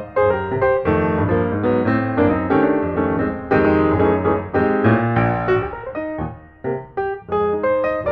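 Solo piano music: chords and a melody played at a moderate pace, thinning out briefly about six seconds in before the playing picks up again.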